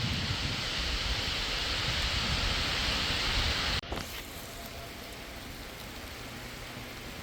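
Driving rain hissing, with wind rumbling on the microphone. About four seconds in the sound cuts abruptly to a quieter rain hiss, under which a faint steady hum from overhead high-voltage power lines can be heard.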